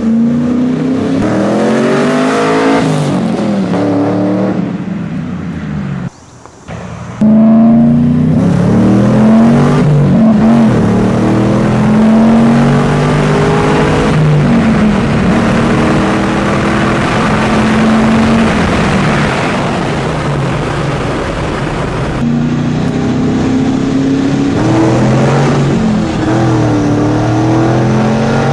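Datsun 280Z engine accelerating hard through the gears, its pitch climbing and then dropping back at each upshift. The sound dips briefly about six seconds in, then comes back loud.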